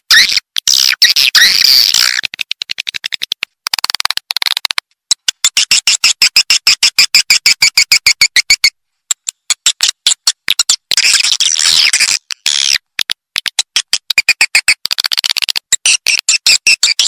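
Swiftlet call track used to lure edible-nest swiftlets into a nesting house: rapid trains of high chirps and clicks, in bursts broken by brief silent gaps.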